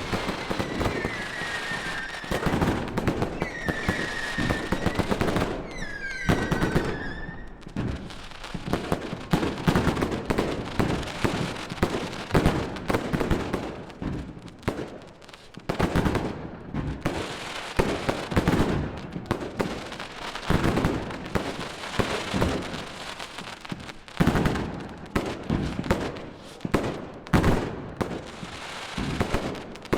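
Fireworks display: for the first few seconds several whistling fireworks sound in turn, each a short high whistle that bends in pitch, over popping. Then comes a dense, continuous barrage of rapid bangs and crackle.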